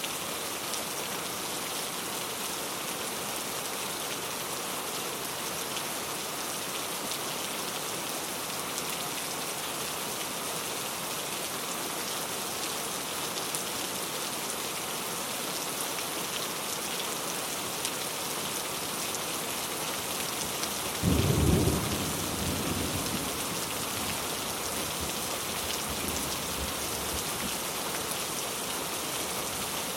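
Heavy rain falling steadily, a dense even hiss of drops. About two-thirds of the way through, a single loud crack of thunder booms and then rumbles away over several seconds under the rain.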